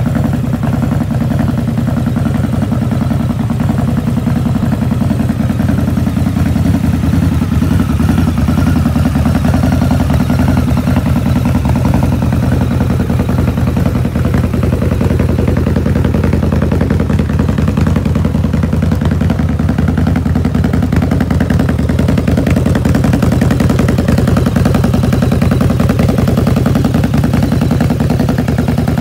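Harley-Davidson V-Rod Night Rod Special's liquid-cooled Revolution V-twin idling steadily.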